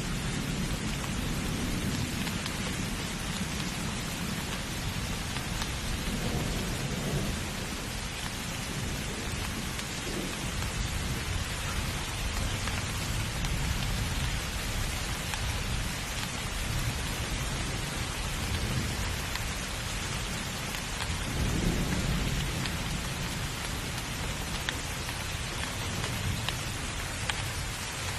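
Steady heavy rain falling, with low rumbles of thunder swelling twice, once about a quarter of the way in and more strongly about three quarters in.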